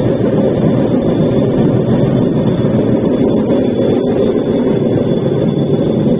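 Bamboo train (norry) running along the rails: a loud, steady, unbroken rumble of its small engine and its wheels on the track.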